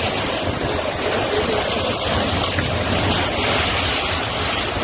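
Steady rush of floodwater, with wind buffeting the microphone.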